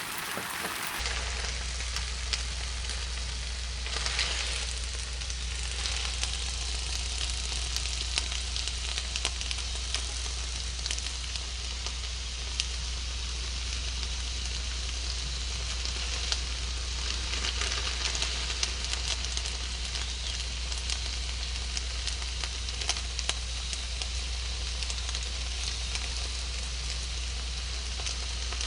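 Hakka noodles stir-frying in a pan with oil, soy sauce and oyster sauce: a steady sizzle dotted with small crackles and spatters, over a steady low hum.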